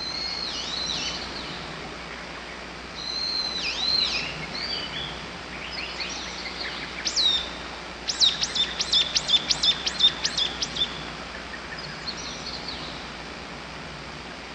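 Wild songbirds singing: warbling whistled phrases, then a fast run of about a dozen sharp downward whistles, roughly four a second, lasting about three seconds, the loudest part.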